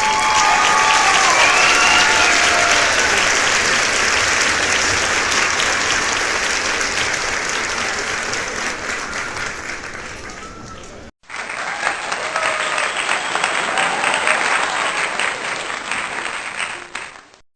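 Sheep bleating over a loud, steady, crackling hiss. Several bleats come in the first few seconds and a few fainter ones later. The hiss breaks off abruptly about eleven seconds in and resumes at once.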